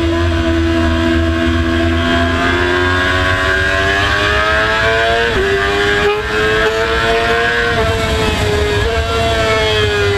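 Racing motorcycle engine pulling hard under acceleration, its pitch climbing, dropping sharply about five seconds in at an upshift, then climbing again and easing off near the end. A steady low rush runs under it.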